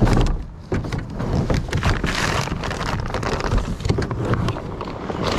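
Plastic wrapping crinkling and crackling as it is handled and pulled off a new kayak.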